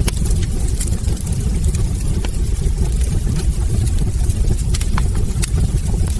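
Wood fire burning in a fireplace: a steady low rumble from the flames with many scattered sharp crackles and pops of the burning logs.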